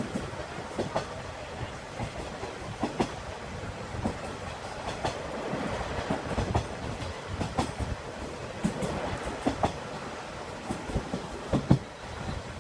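Train running on the rails: a steady rumble of running noise with irregular clacks and knocks as the wheels pass over rail joints.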